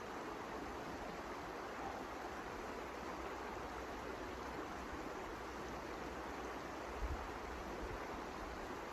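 Steady rushing wind, with a brief low rumble of wind buffeting the microphone about seven seconds in.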